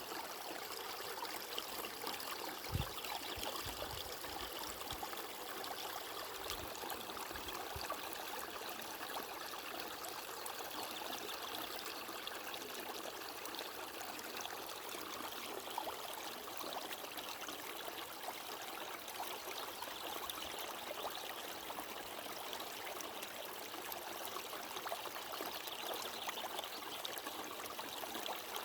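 Running water of a stream flowing and trickling steadily, with a few faint low thumps a few seconds in.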